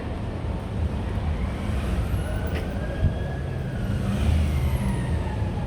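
Road traffic on a city street: a steady low rumble of passing vehicles, with faint high tones sliding in pitch from about two seconds in.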